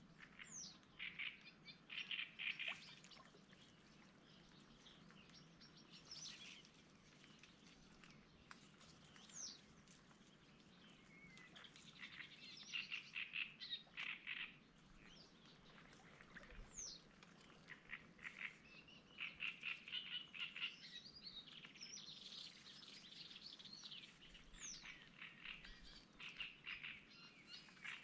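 Small birds singing: phrases of quick repeated chirps with a few sharp falling whistle notes, every few seconds.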